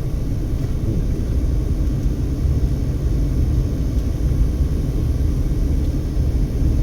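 Steady low rumble of a car being driven at low speed, heard from inside the cabin: engine and tyre noise.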